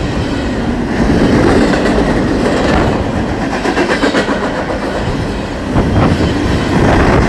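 Freight train of railcars loaded with wind turbine sections rolling past close by: a steady, loud rumble of wheels on rail, with the clickety-clack of wheels striking rail joints now and then.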